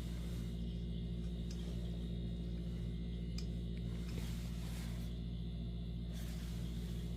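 Steady low electrical-sounding hum with a few faint, short clicks.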